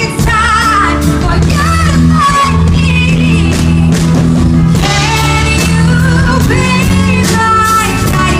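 Live pop ballad: a woman's voice sings long, wavering held notes over band accompaniment with sustained low notes.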